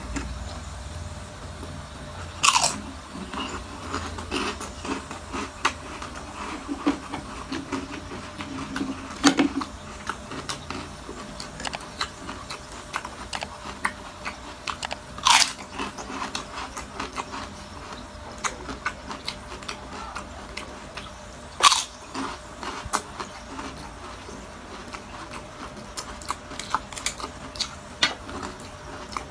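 Close-up crunching and chewing of crispy fried chicken skin, with a few louder, sharp crunches about every six seconds.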